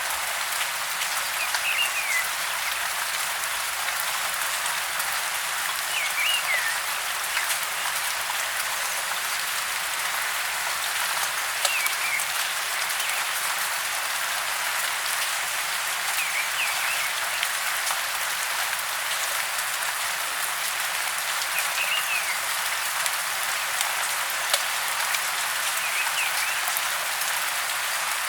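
Steady patter of rain, with a bird giving a short, falling chirp about every four to five seconds.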